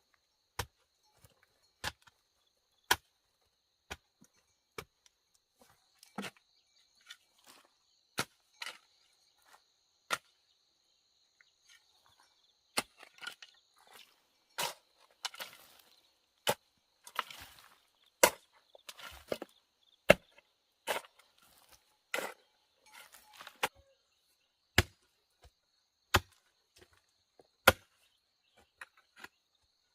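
Wood being chopped with a blade: single sharp blows, roughly one a second and unevenly spaced, with a short pause about a third of the way in and some splintering between the blows in the middle stretch.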